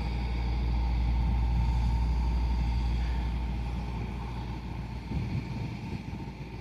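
A passing motor vehicle's low rumble, building over the first two seconds and then fading away.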